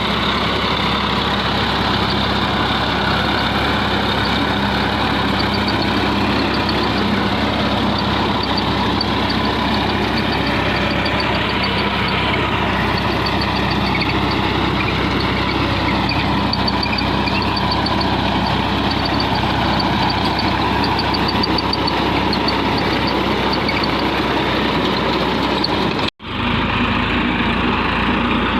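New Holland 3230 tractor's three-cylinder diesel engine running steadily, cut by a sudden brief dropout near the end.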